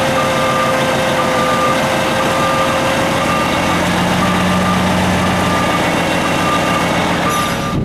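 Heavy truck engine running, with a reversing alarm beeping steadily about once a second over it.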